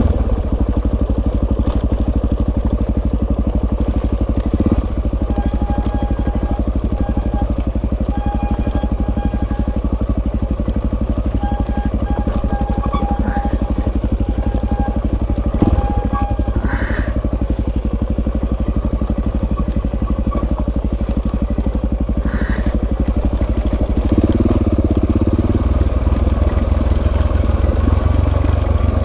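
Suzuki DR-Z400S single-cylinder dual-sport engine running steadily under way. The engine gets louder near the end. A faint repeated tone comes and goes in the middle.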